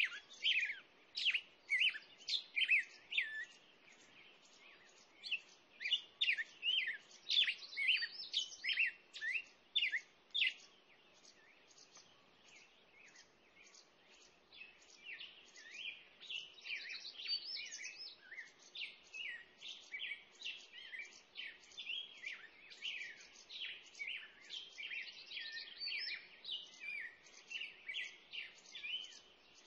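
Birds chirping: rapid runs of short, high, sweeping notes in several bursts, with a lull of a few seconds partway through.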